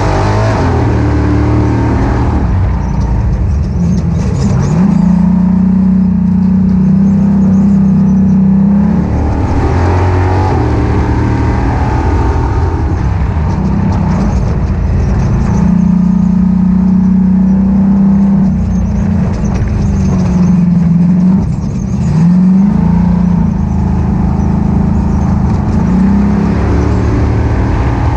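Ultra4 off-road race car's engine running hard at racing throttle, its note rising and falling again and again as the revs climb and drop.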